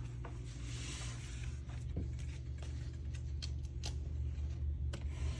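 Oracle cards being handled and flipped through one by one: soft sliding hiss and scattered light clicks over a steady low hum.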